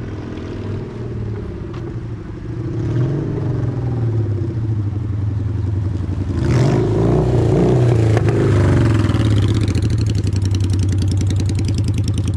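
Honda Steed VLX 600 V-twin motorcycle engine running and being revved, louder from about six seconds in with a short rush of noise, its pitch climbing near the end as it accelerates.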